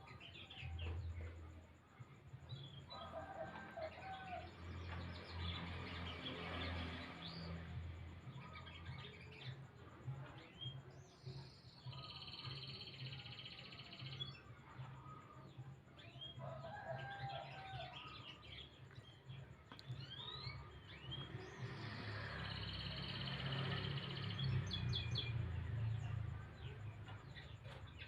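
Domestic canary singing long, varied songs of rapid trills and warbled phrases, bout after bout with short breaks, over a steady low rumble.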